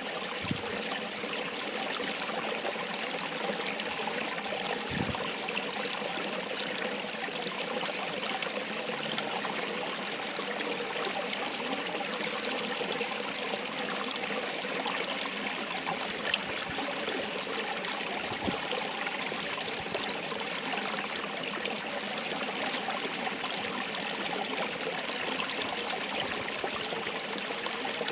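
Running water flowing steadily, an even rushing and trickling with no pauses.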